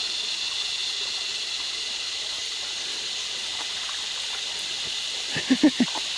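Creek water running with a steady, hissing trickle. Near the end, four short, low pulses of sound come quickly one after another.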